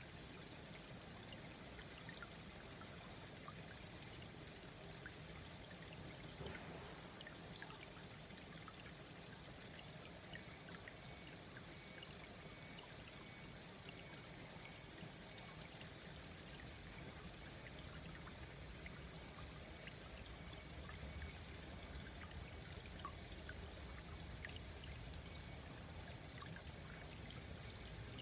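Small, slow-flowing stream babbling and trickling softly and steadily, with many small splashes. A faint steady high tone joins about ten seconds in.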